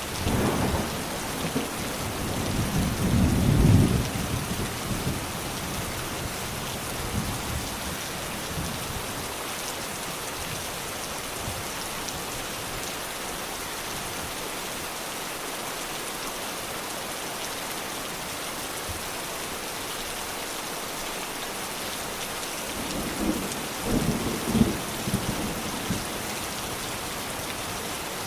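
Steady, heavy rain hissing on surfaces, with thunder rumbling twice: a long roll in the first few seconds that swells to its loudest near the fourth second, and a shorter roll near the end.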